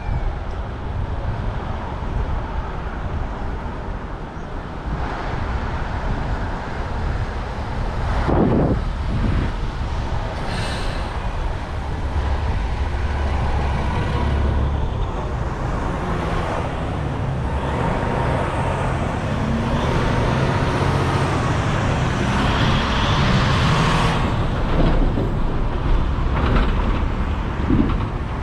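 City street traffic heard from a moving bicycle: a steady rumble of passing cars, trucks and buses, with one louder vehicle going by about eight seconds in.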